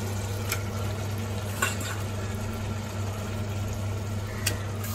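Raw chicken pieces sizzling in hot oil and masala in an aluminium pressure cooker, over a steady low hum, with three light clicks as the pieces go in.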